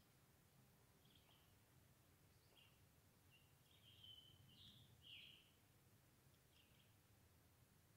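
Near silence with a few faint, short bird chirps scattered through it, a longer run of chirps about halfway.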